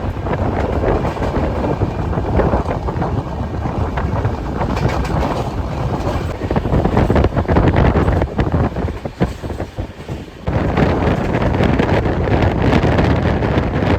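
Express passenger train running at speed, its rumble mixed with heavy wind buffeting the microphone; the noise drops briefly about ten seconds in, then returns.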